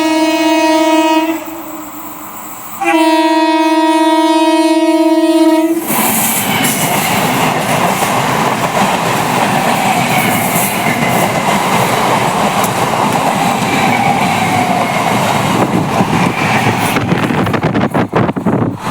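An Indian Railways electric train's horn gives two blasts: the first stops about a second in, and a second blast lasts about three seconds. The train then passes close by with a steady loud rumble and clickety-clack of its wheels over the rail joints.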